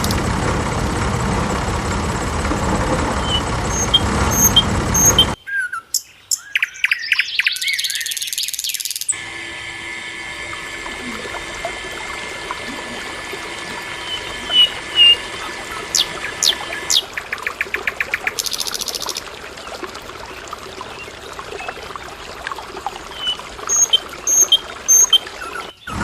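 Small birds chirping in short, repeated calls over a steady background hiss, which drops away for a few seconds early in the stretch.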